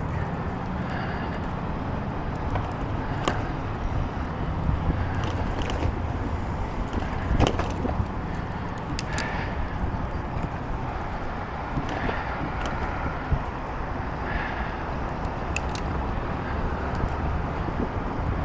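Steady low rumble of a bicycle in motion, wind and tyre noise, with scattered light clicks and a sharper knock about seven and a half seconds in.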